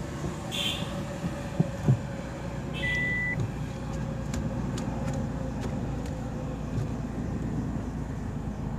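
Maruti Suzuki Baleno hatchback running at low speed as it is manoeuvred in a tight turn, a steady low rumble. Two short knocks come just before two seconds in, and a brief high beep about three seconds in.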